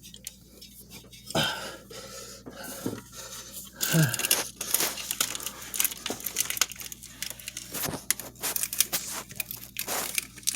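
Rubber spark plug wire being worked into place by hand: a busy run of scraping, crinkling and clicking as the wire and its plastic loom rub and push through a tight spot, with a couple of louder knocks about one and a half and four seconds in.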